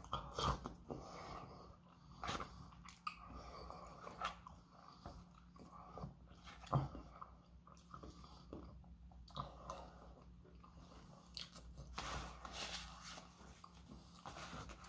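A person chewing and biting mouthfuls of McDonald's french fries, quiet mouth sounds broken by scattered small clicks and crinkles of a plastic fork and paper food cartons.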